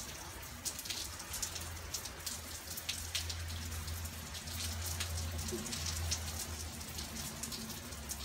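Steady rain falling: an even hiss of drops with many small sharp ticks, over a low rumble.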